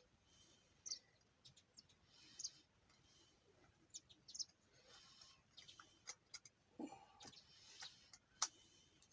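Near silence with faint, short bird chirps every second or two, and a few light clicks in the second half.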